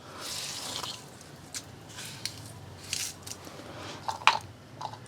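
Handling noises from wet washing machine drain parts and pulled-out debris: a soft wet rustle, then a few scattered sharp clicks and taps of plastic.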